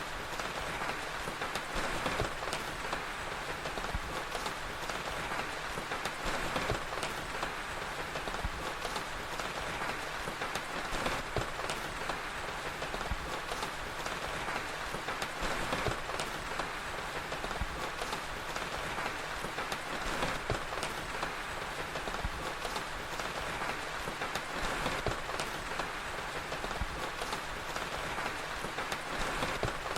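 Steady rain ambience with a fire crackling: an even hiss of rain, broken by many scattered sharp little clicks.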